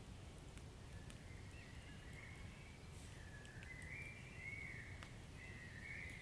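Wood fire burning softly in a fireplace: sparse faint crackles over a low rumble, with a thin wavering high whistle drifting up and down.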